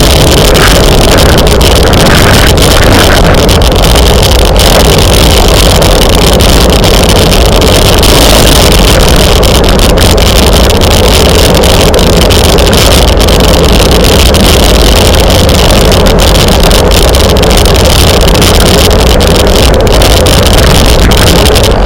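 Steady, loud wind rush on the camera microphone of a rider moving at race speed on a bicycle, loud enough to overload the recording.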